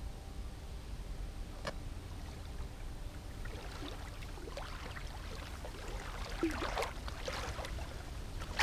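River water lapping and trickling at the bank, with faint small splashes in the second half over a low wind rumble.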